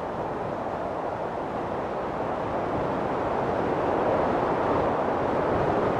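A steady rushing noise with no tones in it, getting a little louder about three seconds in.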